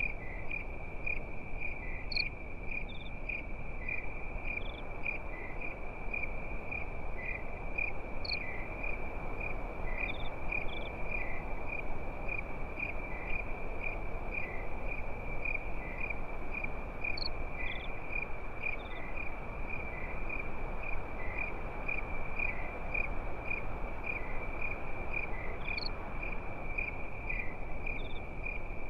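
Crickets chirping in a steady, regular pulse, about two chirps a second, over the low, even hiss and crackle of a campfire, with a few sharp pops scattered through.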